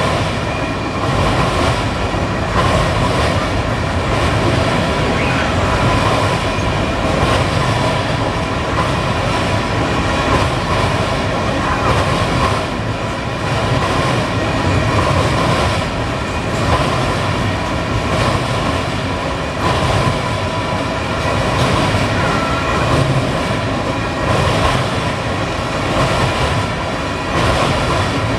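Canadian Pacific freight train cars rolling steadily past, their wheels rumbling and clattering on the rails. A thin, steady ringing tone sits above the rumble.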